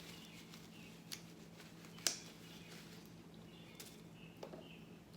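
A few faint small clicks and taps, the sharpest about two seconds in, over a steady low hum.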